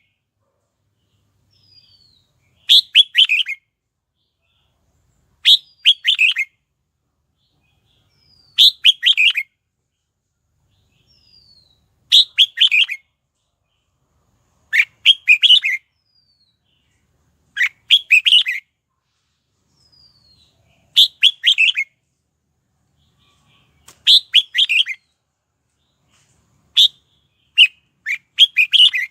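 Red-whiskered bulbul singing short, quick phrases of several notes, repeated about every three seconds, often with a faint falling note just before each phrase. The phrases come closer together near the end.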